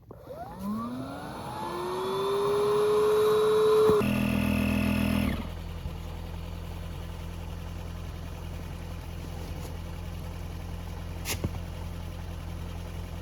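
A motor whine rising in pitch and levelling off over about three seconds, then cutting abruptly to a steady low mechanical hum that runs on.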